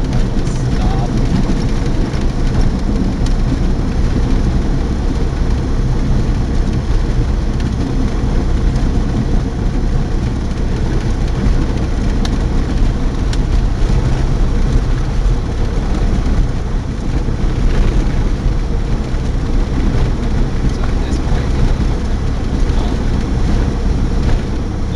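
Cessna 172's single piston engine and propeller running with a steady, loud drone and a rushing noise, holding an even level throughout.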